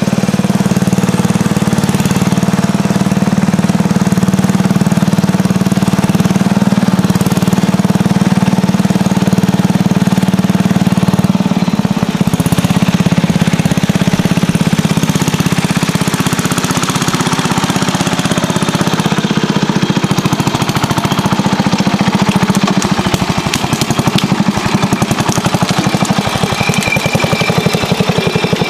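Vintage Montgomery Ward garden tractor engine running steadily with a fast, even firing pulse, driving with the trailer.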